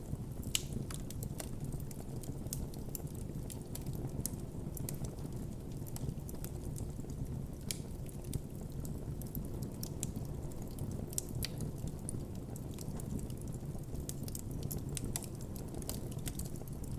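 Campfire burning with a steady low rumble of flames and frequent sharp crackles and pops of burning wood, scattered irregularly throughout.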